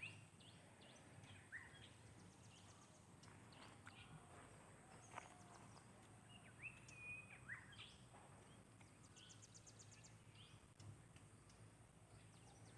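Faint outdoor ambience with scattered bird chirps and short calls. Twice there is a quick series of high ticks, and a steady faint hiss lies underneath.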